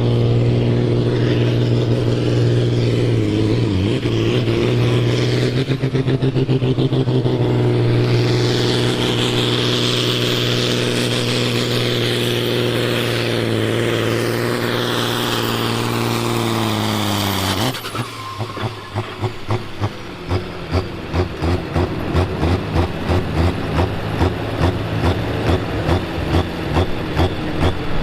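Ursus tractor's diesel engine running flat out under load in a pull, a steady loud note that sags slightly near the end. About three quarters of the way through, the engine is cut back abruptly and drops to a lower, rhythmic chugging as it slows toward idle.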